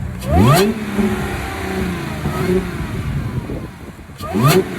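Car engine revved in two sharp blips, one about half a second in and one near the end, settling back to a steady idle in between.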